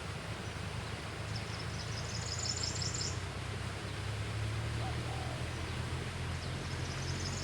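A bird's rapid, high chittering call lasting about two seconds, then again briefly near the end, over a steady low hum.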